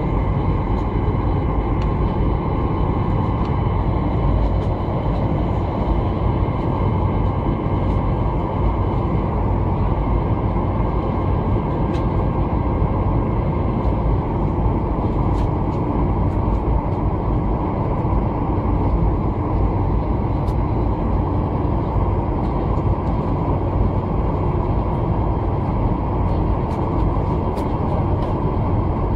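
Steady cabin rumble of a Boeing 747 on the ground with its engines running, at an even level with no build-up of power. A few faint clicks can be heard now and then.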